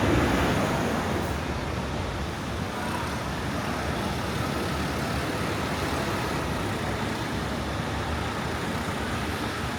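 Steady rumble of road traffic, a little louder for the first second and then even.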